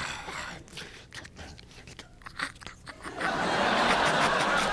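Crunching, chewing-like sound effects made by mouth into a microphone, as a string of short crackling clicks. About three seconds in, a louder, steady rushing noise takes over.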